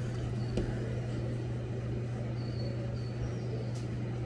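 A steady low machine hum, like an idling engine, with a faint tick about half a second in and a few faint, short high peeps in the middle.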